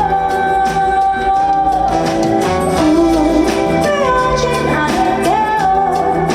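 A woman singing live with a band backing her, holding one long steady note for about the first two seconds before the melody moves on.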